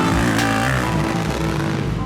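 Dirt-bike engines running and revving, with music playing underneath.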